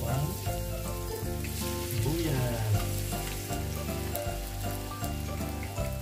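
Minced garlic and chopped white onion sizzling as they are tipped into hot oil in a wok, over background music.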